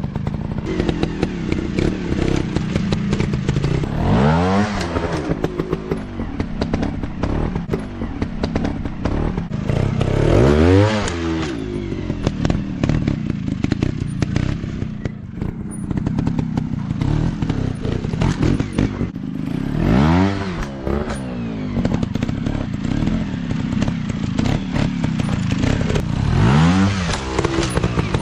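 Dirt bike engines running with a rapid, rattly exhaust note, the pitch sweeping up and back down sharply four times as the throttle is blipped.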